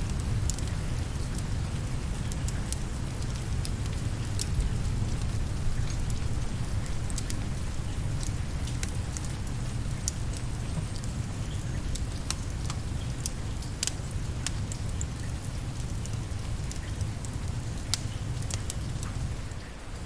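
Steady rain with a low rumble, mixed with the sparse crackles and pops of a wood fire burning in a fireplace. The sound dips briefly just before the end.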